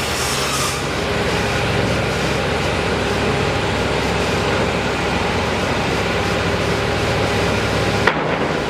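Steady, dense noise of machinery and traffic at a bridge construction site, with one sharp knock about eight seconds in.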